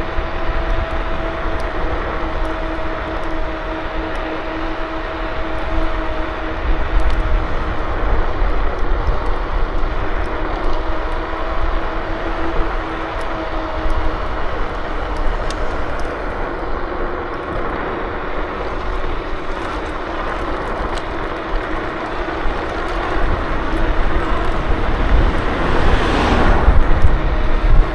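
KuKirin G2 electric scooter riding along, its hub motor giving a steady whine over a rush of wind and tyre noise. Near the end a louder rushing swell builds and fades.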